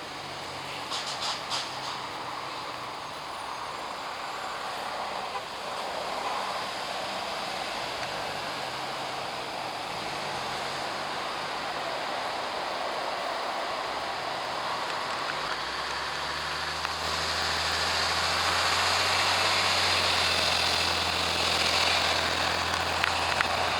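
Fire engine running with a steady engine drone and road noise, growing louder about two-thirds of the way through as it comes nearer. A few short clicks sound about a second in.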